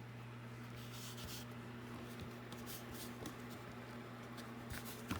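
Short, quiet rustles of fingers rubbing and pressing a glued fabric strip against paper on a journal spine, over a steady low hum.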